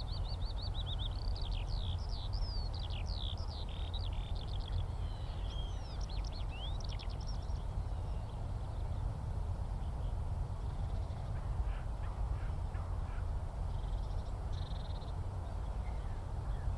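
Skylark singing: a fast, unbroken run of high warbling and trilling notes that fades to fainter scattered notes about seven seconds in. A steady low rumble sits underneath throughout.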